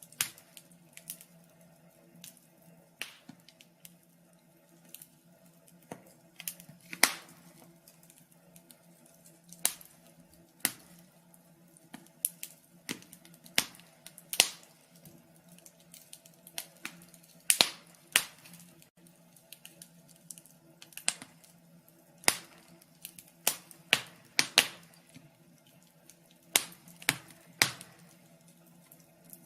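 Wood fire crackling in a fireplace: irregular sharp pops and snaps, some loud and some faint, over a faint steady hum.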